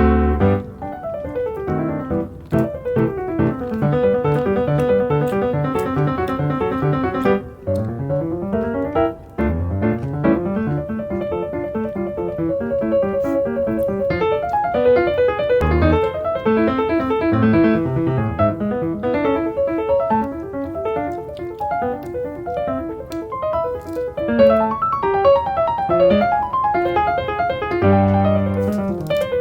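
Background piano music: flowing arpeggios and melody played continuously at a steady level.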